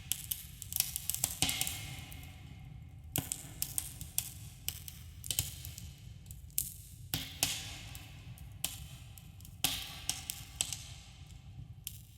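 Campfire of burning wood crackling: irregular pops and snaps, some in quick clusters, over a steady low rumble and hiss, with a slight echo.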